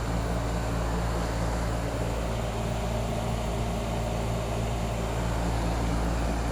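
Trane XR11 2.5-ton heat pump outdoor unit running steadily in cooling mode: the compressor hums while the condenser fan moves air.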